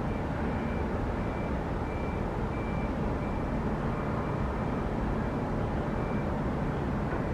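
Steady rumble of a Boeing 777-300ER's GE90 jet engines running on the apron, with a high electronic beep repeating about one and a half times a second.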